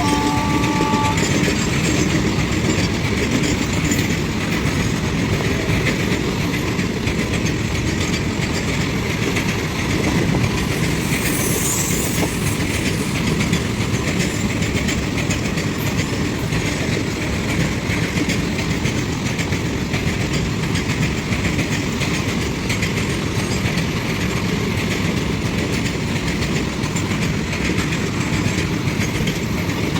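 Indian Railways train running past at speed: a steady loud rush of wheels on rail with rhythmic clickety-clack over the rail joints. A horn note cuts off in the first second, and a brief high squeal comes about twelve seconds in.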